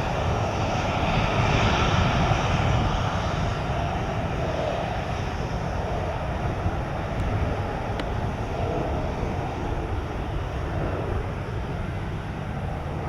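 Jet aircraft engines running, a broad rushing noise that is loudest in the first few seconds and then slowly fades as the plane moves off.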